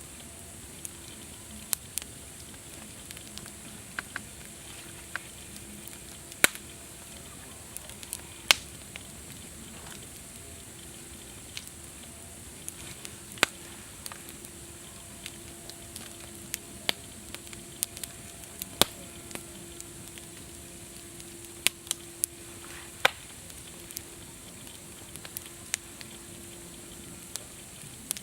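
Campfire crackling: irregular sharp pops and snaps over a steady hiss. The loudest pops come about six and eight seconds in.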